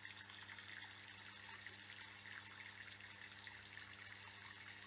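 Steady recorded rainfall, a soft even patter of many drops, with a faint low electrical hum beneath it.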